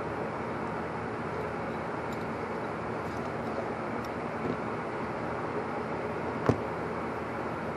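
Steady rushing background noise with no clear source, and a single sharp click about six and a half seconds in.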